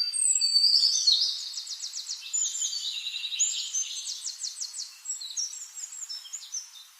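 Songbirds singing: quick high trills and short whistled notes, starting suddenly, loudest in the first two seconds, then thinning out and fading toward the end.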